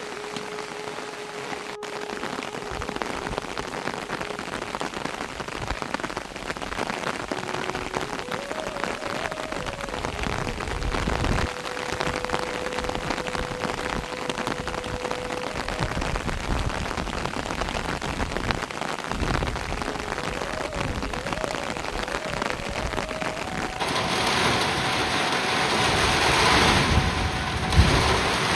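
Steady rain falling, growing louder and heavier near the end.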